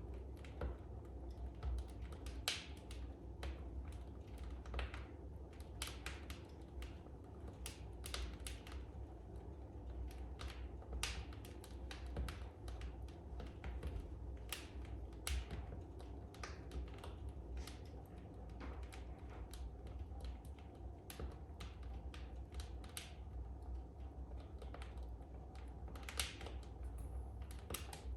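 Wood fire crackling in a fireplace: irregular sharp pops and snaps over a steady low background.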